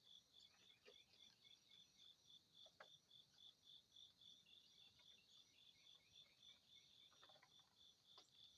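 Faint crickets chirping in a steady, even pulse of about four chirps a second, with a few brief, faint bird chirps here and there.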